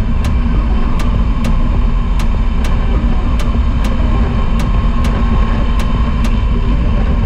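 Royal Enfield Himalayan 411's single-cylinder engine running steadily under way, mixed with road and wind noise. A faint regular tick comes about twice a second.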